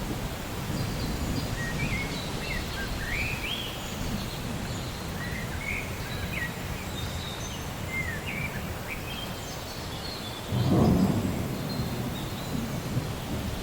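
Rainy-day storm ambience: a steady low rumble of rain and distant thunder, with birds chirping in short, quick calls throughout. A louder roll of thunder swells up about ten seconds in.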